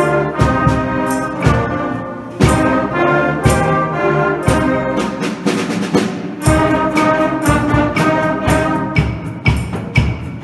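Wind band playing a blues with the brass section in front: trumpets and trombones holding chords over a steady drum beat.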